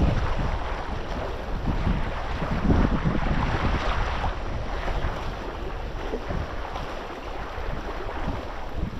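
Wind buffeting the microphone, a gusty low rumble over the wash of water.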